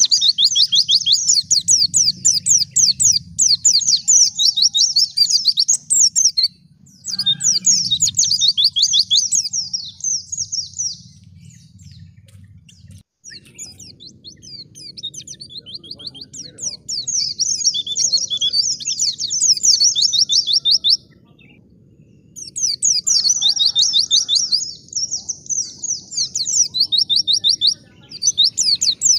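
White-eye (pleci) singing long runs of fast, high, chattering trills, several phrases broken by short pauses, over a steady low background hum.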